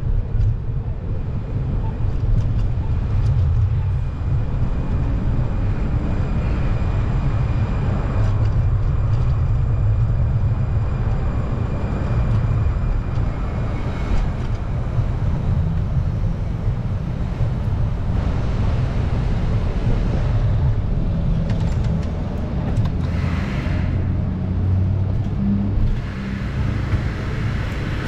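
Steady low rumble of wind and road noise while riding a bicycle through city traffic, with two brief hissing sounds near the end.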